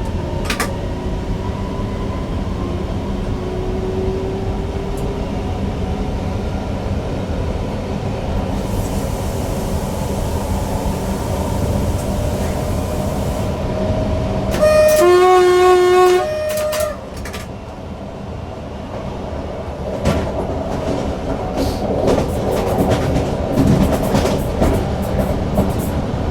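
Newag Impuls EN63 electric multiple unit running, heard from the driver's cab: steady rumble of wheels and motors, with a two-tone horn sounded about halfway through for about two seconds, going high, low, then high again. Sharp rail clatter picks up over the last few seconds.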